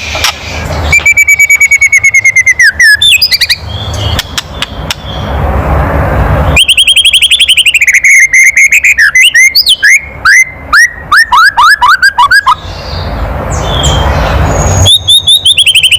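White-rumped shama (murai batu) giving its kretekan, the harsh agitated rattle used to provoke other shamas: bursts of very rapid rattling strokes with whistled notes sliding up and down through them. The bursts come about a second in, again for several seconds from the middle, and once more near the end.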